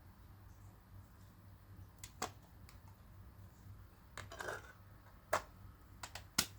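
A few sharp plastic clicks and a short scraping rustle as a portable CD player is handled and a disc is loaded into it. The loudest clicks come near the end.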